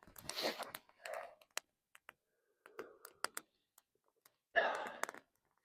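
Small wood campfire crackling, with scattered sharp pops and ticks, and a few short hissy rustles in between.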